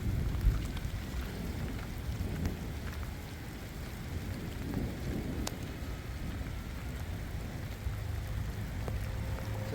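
Heavy rain falling steadily, with a deep low rumble under it and one low thump about half a second in.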